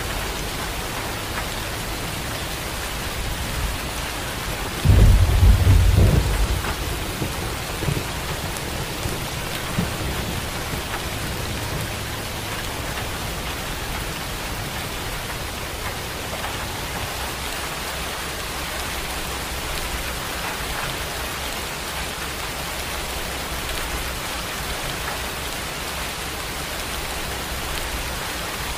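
Steady heavy rain falling, with a single clap of thunder about five seconds in that rumbles off over the next several seconds.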